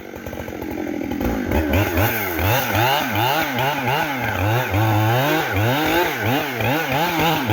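Two-stroke chainsaw cutting into a standing tree, its engine pitch rising and falling about twice a second as the chain works in the cut. The saw starts low and builds up over the first couple of seconds.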